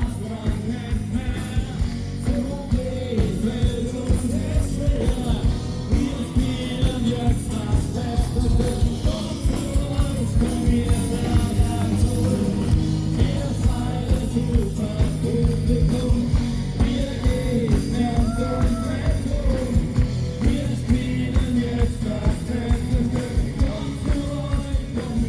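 A live party band playing an up-tempo rock-and-roll style song with sung vocals over a steady drum beat.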